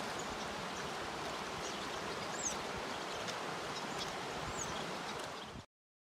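Steady outdoor hiss with a few faint, high bird chirps over it; the sound cuts off abruptly near the end.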